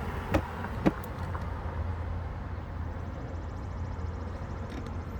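Riding noise on an electric bike: a steady low rumble, with two sharp knocks less than a second in.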